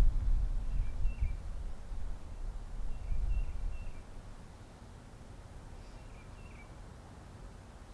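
A small songbird giving short high chirps in three quick groups of two or three notes, spaced a few seconds apart. Under them a low rumble is loud for the first half and then fades out.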